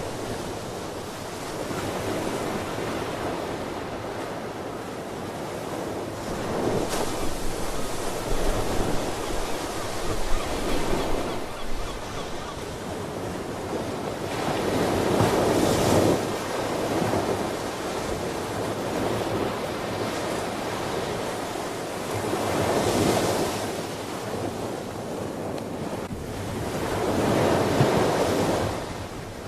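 Ocean surf: waves breaking and washing ashore in slow surges, swelling and ebbing about four times.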